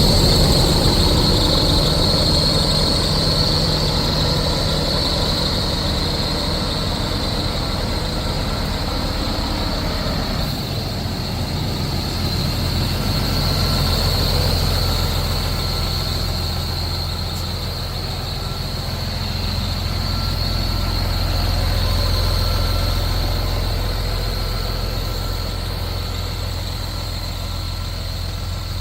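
Scania R500 truck's 13-litre inline-six diesel engine running steadily, its low hum shifting about ten seconds in, with a steady high whine over it.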